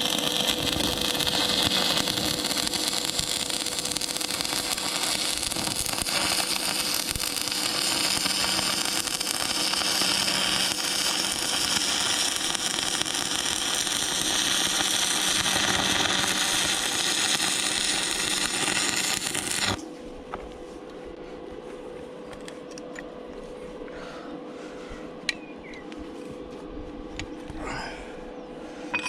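Angle grinder working on steel, a steady harsh grinding with a whine that drifts in pitch as the load changes, stopping suddenly about twenty seconds in; a faint steady hum and a few light clicks follow.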